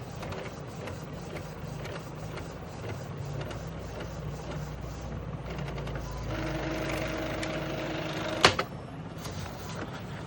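Epson ink-tank inkjet printer mechanism running: rapid even ticking of the carriage and feed gears, then a steady motor whine for about two seconds that ends in a sharp clack.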